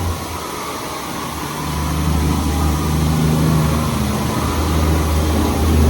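LaserWash 360+ touchless car wash working over the car, heard from inside the cabin: a steady low rumble with a hiss of spray that grows louder about two seconds in.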